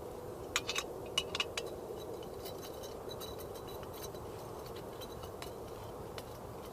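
A quick run of small sharp clicks in the first second and a half, then a few sparse light ticks: parts of a folding camping cook set with gas stove being handled and unfolded.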